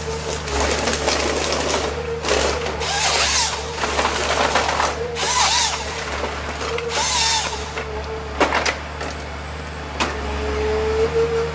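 A machine's engine running steadily, with three harsh bursts of cutting noise as it works through wood, then a couple of sharp knocks near the end.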